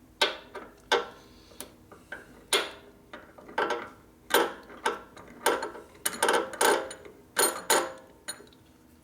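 A string of sharp metallic clicks and knocks at uneven intervals, some ringing briefly: tools or metal parts being handled and set down.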